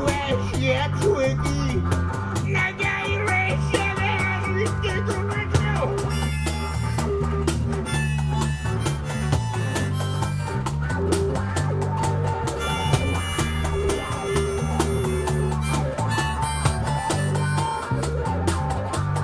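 Instrumental break of a band song: drum kit and a repeating bass line with guitar, and a lead melody that is busiest for the first few seconds.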